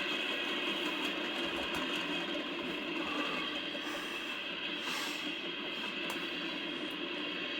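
A train passing on the line, heard as a steady rushing noise through a trail camera's small microphone.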